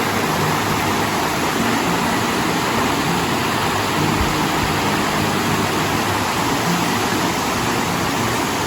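Steady rush of a fast-flowing mountain creek, an unbroken wash of water noise.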